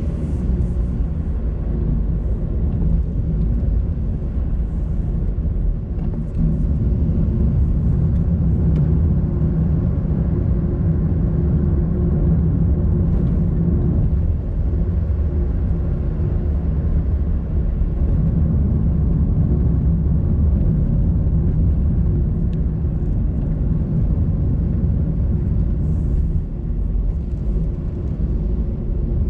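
Car driving along a road: a steady low engine and road rumble with a constant hum.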